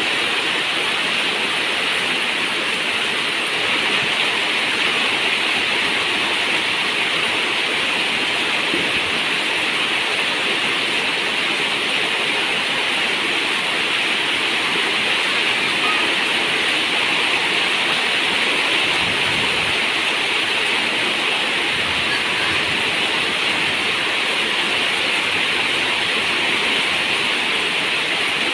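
Steady heavy rain falling on a zinc roof, a dense even hiss with no single drops standing out.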